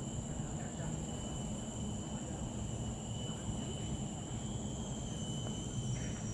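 Forest insects droning steadily in two high, unbroken tones over a low rumble, with a short rasping insect call starting near the end.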